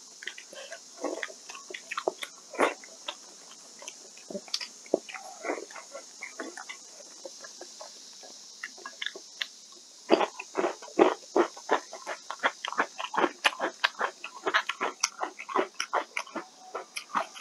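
Close-up mouth sounds of someone eating rice and vegetables: chewing and smacking clicks, sparse at first, then quick and dense from about ten seconds in. A steady faint high hiss lies underneath.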